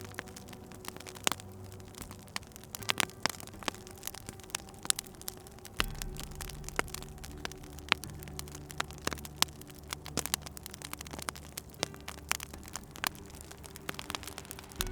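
Wood fire crackling in a fireplace, with irregular sharp pops and snaps, some louder than others. Beneath it runs a soft, low sustained drone whose pitch shifts about six seconds in.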